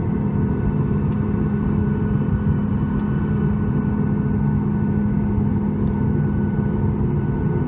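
Cabin noise inside a Boeing 737 MAX 8 airliner: a steady rumble of its CFM LEAP-1B jet engines and airflow, with a constant hum over it.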